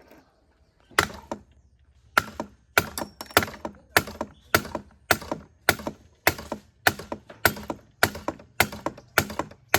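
Steady, regular sharp knocks, each one a hard strike, coming a little under two a second after a first lone blow, like repeated hammer blows on a part.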